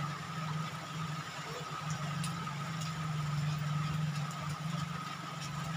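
Heavy rain falling, an even hiss with scattered faint drop ticks, over a steady low hum.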